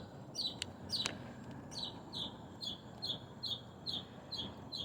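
A songbird repeating a short, high, falling chirp about two to three times a second, with two sharp clicks about half a second and a second in.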